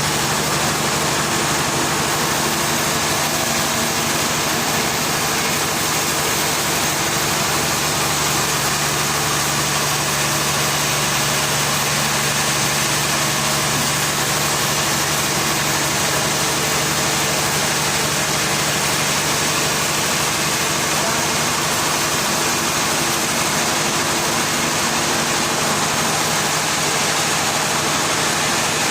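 An engine running steadily at idle, a constant low hum under an even mechanical noise, with no change in speed.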